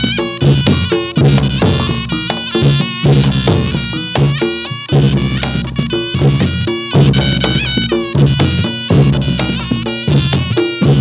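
Live reog Ponorogo jathilan music: a slompret (shawm-type reed pipe) plays a wavering melody over a steady rhythm of drums and gongs.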